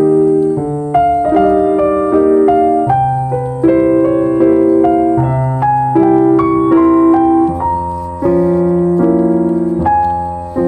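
Background music: a slow, gentle piano melody with chords, notes struck and left to ring.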